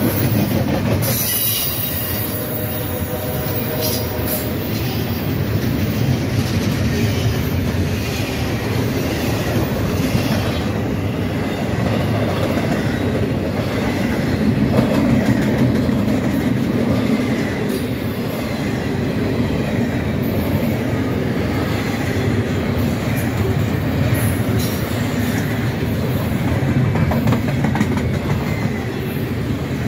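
Double-stack intermodal freight train's well cars rolling past close by: a steady, loud rumble of steel wheels on rail with clickety-clack over the rail joints and some wheel squeal. The last of a locomotive horn dies away in the first couple of seconds.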